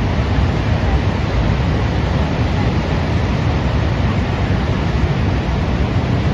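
Mountain stream in flash flood: a loud, steady rush of water with a heavy low rumble.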